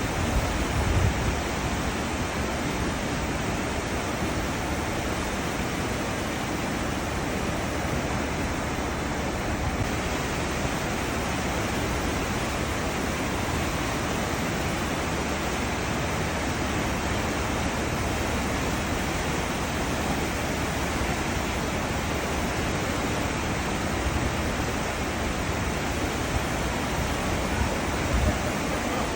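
Cruise ship wake: a steady rush of churning, foaming seawater. There is brief low buffeting, typical of wind on the microphone, about a second in and again near the end.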